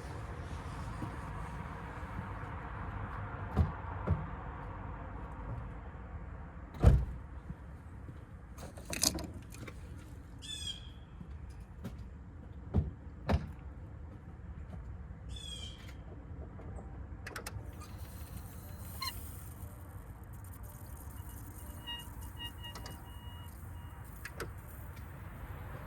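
Knocks and clicks of a car door and handling as the car's ignition is switched on, scattered over a steady low hum; the loudest thump comes about seven seconds in, with two brief high chirps about ten and fifteen seconds in.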